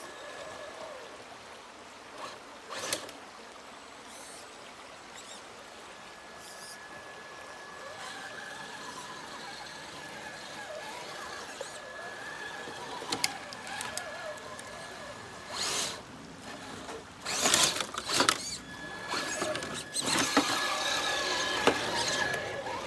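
Electric motor and gear whine of an RC rock crawler, a steady high whine that comes and goes, with scattered knocks and scrapes that are loudest in the second half.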